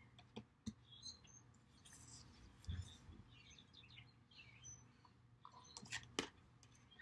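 Faint bird chirps, with a few soft taps and slides of tarot cards being laid down and moved on a table.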